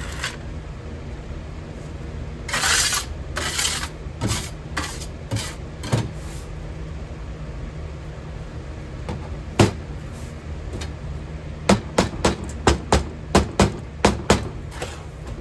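Sharp knocks of a hammer tapping, a few scattered ones and then about a dozen in quick succession in the last few seconds, likely knocking a cast copper piece loose from its mold. Two short rushes of noise come early on, and a steady low hum runs underneath.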